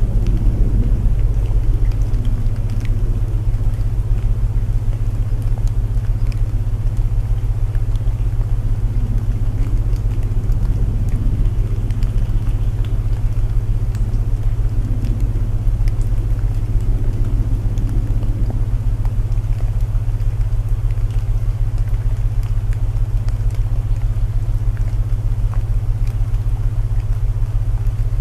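Layered sleep soundscape: steady low binaural tones humming under a soft rumbling hiss of rain, with scattered faint crackles from burning wood in a fireplace.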